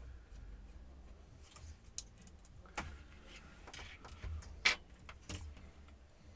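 Scattered small clicks and taps of a screwdriver and laptop parts being handled during disassembly, about five sharp clicks spread out, over a low steady hum.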